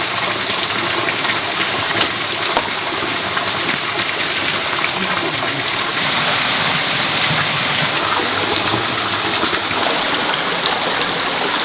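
Steady rushing of running water, with a few faint clicks; it grows a little louder about halfway through.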